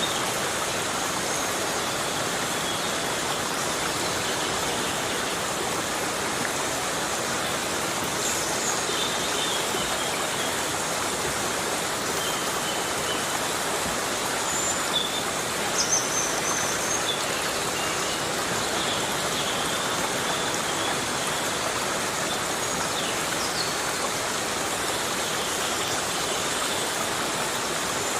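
Heavy rain falling steadily on forest foliage, making an even, unbroken hiss, with short, faint high-pitched sounds here and there.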